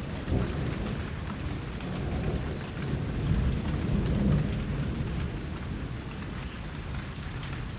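Steady rain falling, an even hiss of drops. Under it runs a low rumble that swells and fades a couple of times.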